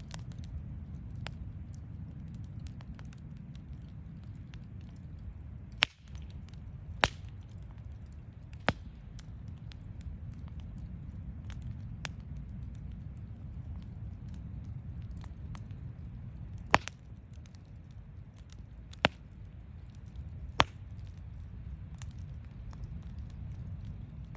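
Campfire burning: a steady low rumble with sharp, irregular pops and cracks from the burning wood, the loudest pops a few seconds in and about two-thirds of the way through.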